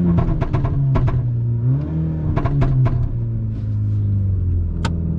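Stage 2 Mk6 Golf GTI's turbocharged four-cylinder under full throttle, heard from inside the car. The engine note drops at a gear change right at the start and climbs and drops again at another change at about two seconds, each change followed by a quick run of sharp crackles. It then pulls on steadily, with one sharp crack near the end.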